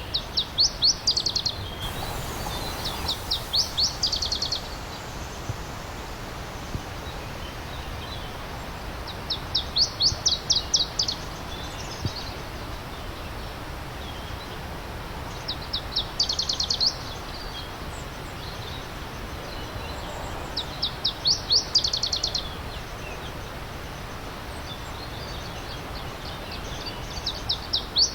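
A songbird repeating a short high trill of rapid notes, each phrase about a second long, every few seconds. A steady stream runs underneath.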